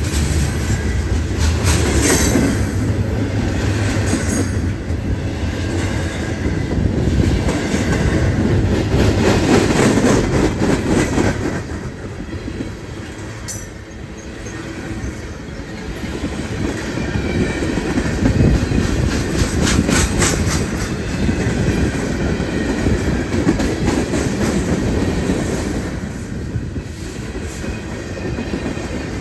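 A train rolling past at close range, its wheels clacking over the rail joints in clusters. The rumble eases off briefly about halfway through, then builds again.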